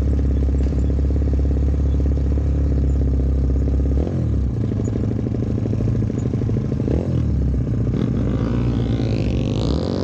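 Small four-stroke single-cylinder mini-bike engine running steadily under way. Its pitch dips and climbs again about four seconds in and about seven seconds in, like gear changes.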